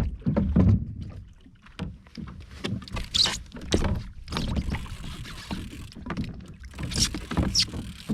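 Irregular knocks, clicks and clatter on a fishing kayak, with water sounds around the hull.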